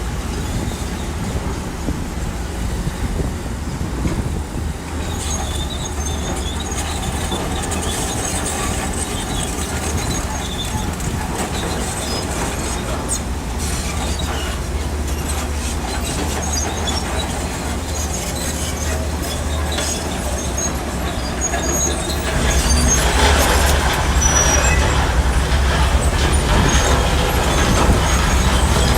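Shantui crawler bulldozer working, its diesel engine running steadily while the steel tracks clank and squeak. It gets louder about two-thirds of the way through.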